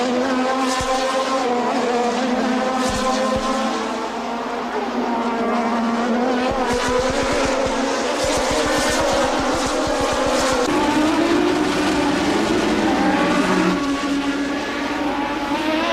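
1988 Formula One racing car engine running at high revs, its pitch falling and then shifting about ten seconds in as the car changes speed.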